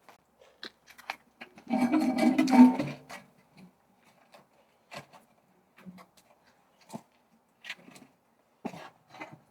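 Scattered knocks and clicks of objects being handled, with a longer, louder clatter about two seconds in.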